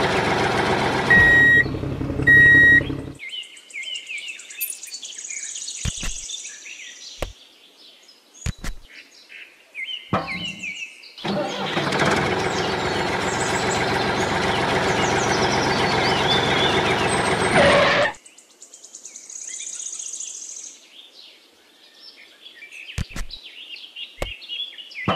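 A tractor engine running, broken by two short beeps about one and two and a half seconds in, then cutting off about three seconds in. Birds chirp with a few light knocks between, the engine runs again from about eleven to eighteen seconds, and birds chirp again after.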